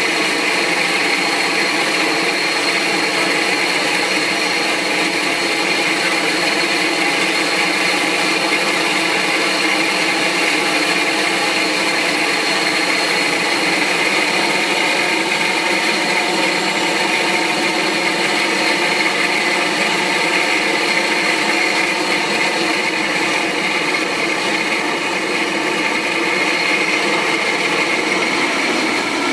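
Jet engines of a Boeing 747-400 freighter running steadily, a loud whine over a steady rush that holds unchanged throughout.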